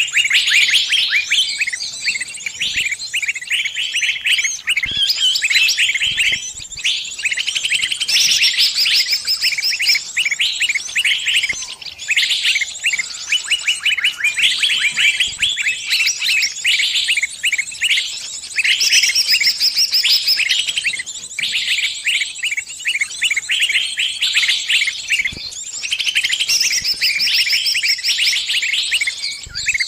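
A small bird calling without pause in fast, shrill chirps and trills: the distress cries of a trapped bird calling its flock for help.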